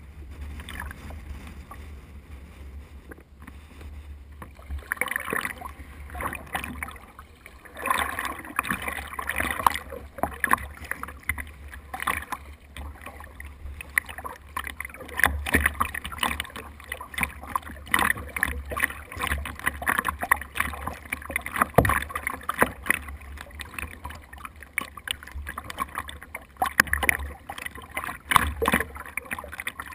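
Water splashing and slapping against a small boat in irregular bursts, over a steady low rumble.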